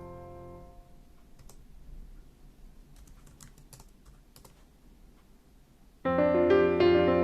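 Piano background music fades out, leaving a quiet stretch with a few faint clicks of typing on a computer keyboard, then the piano music starts again about six seconds in.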